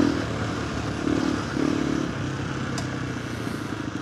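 KTM 390 Adventure R's single-cylinder engine running through a Norifumi Whoops slip-on exhaust with the dB killer fitted, heard while riding. The note eases off right at the start, swells briefly about a second in, then holds at a steady low pace.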